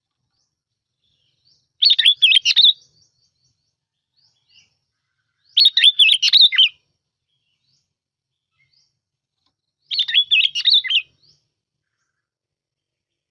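Bông lau bulbul singing: three short, bubbly, warbling phrases, each about a second long and some four seconds apart, on a lure-call recording.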